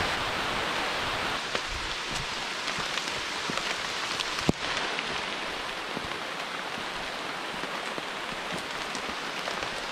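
Steady rain falling on rainforest foliage, with scattered drips and one sharp tap about four and a half seconds in.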